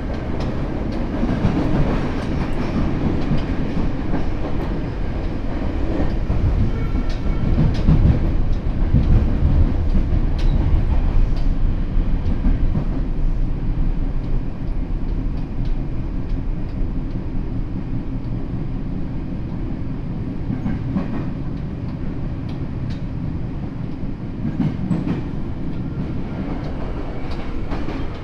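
Running sound of a Tokyo Metro 7000 series train heard from inside the car: a steady rumble of wheels on rail with scattered light clicks. It swells for several seconds a few seconds in and then settles.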